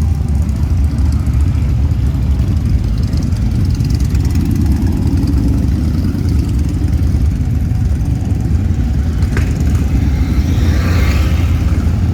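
Motor vehicle engine running steadily with a heavy, even low rumble.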